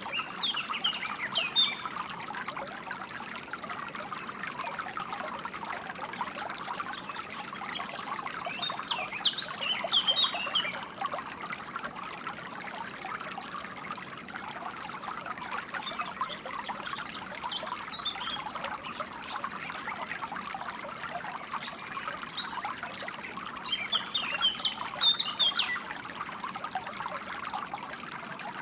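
Steady trickling and splashing of a small stream of flowing water, with several short bursts of high bird chirping over it.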